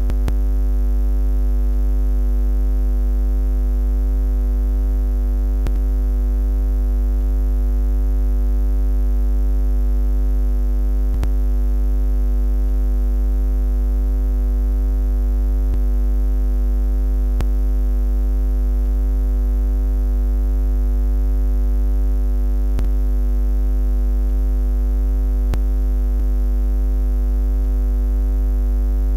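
Steady low buzzing hum with evenly spaced overtones, unchanging in pitch and level, with a few faint clicks here and there.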